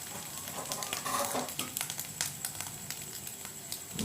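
Egg frying in hot oil in a pan: a steady sizzle with many irregular little crackles and pops.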